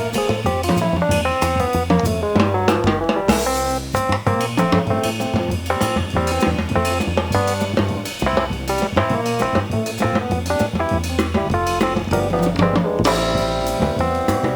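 Jazz band playing live: drum kit and bass under a quick line of short melodic notes.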